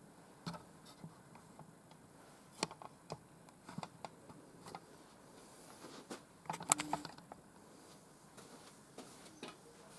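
Scattered light clicks and taps of things being handled, with a louder cluster of clicks about seven seconds in.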